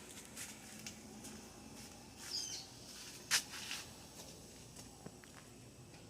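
Quiet outdoor ambience with a few scattered clicks and a short bird chirp about two and a half seconds in; no aircraft engine is heard.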